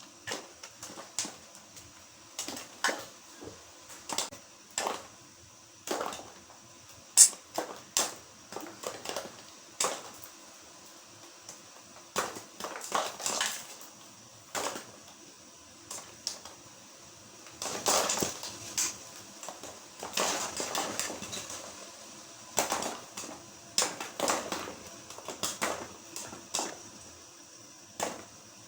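Act II microwave popcorn kernels popping inside their paper bag over a gas flame: sharp, irregular pops, sometimes coming in quick clusters.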